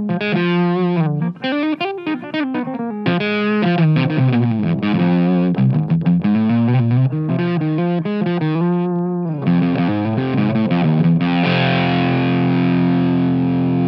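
Electric guitar played through an MXR MC402 Boost/Overdrive pedal into an amp, with an overdriven tone: a melodic line of single notes and bends, then a held chord ringing out near the end.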